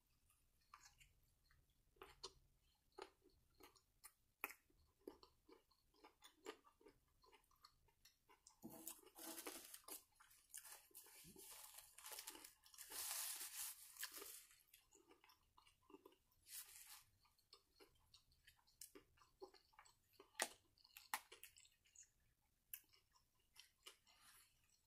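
Close-up chewing of a bite of barbecue chicken sandwich: faint, soft, irregular mouth clicks throughout. Partway through, a paper napkin rubs across the mouth for a few seconds, the loudest sound here.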